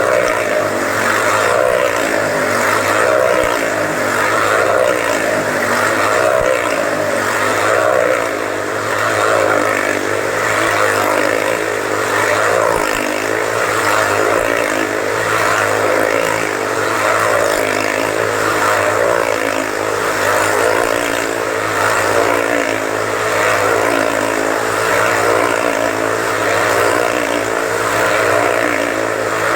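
Motorcycle engines running at speed inside a steel cage, a continuous loud drone that swells and fades in a steady rhythm about every second and a half as the bikes circle.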